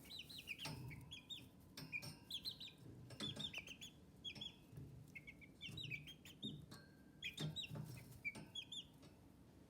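Chickens calling: many short, high chirps in quick clusters, with a few faint low knocks among them.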